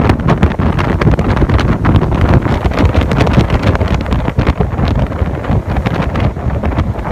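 Hurricane-force wind blowing hard and buffeting the microphone, a loud rumbling rush that surges and dips in rapid gusts.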